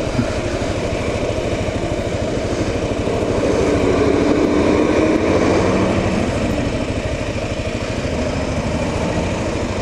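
2009 Kawasaki KLR 650 single-cylinder four-stroke engine running steadily as the motorcycle is ridden, heard from the bike-mounted camera, growing a little louder for a couple of seconds around the middle.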